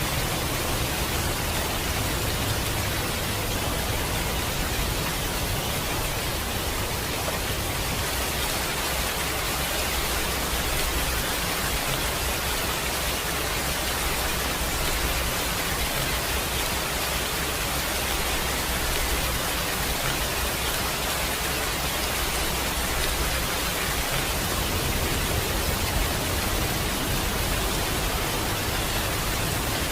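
Steady rain, an even hiss with a low rumble underneath and no distinct drops or thunderclaps.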